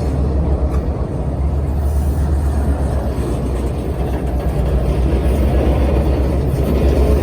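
Steady low rumble of a train's diesel locomotive engines.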